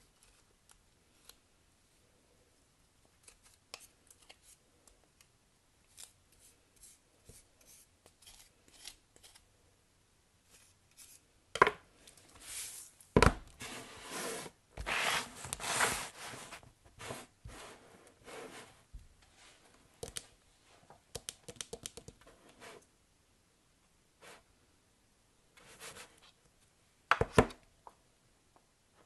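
Soap being unwrapped by hand: packaging rustling and tearing, with scattered small clicks and taps. A few seconds of louder, denser rustling come about halfway through, and a sharp burst near the end.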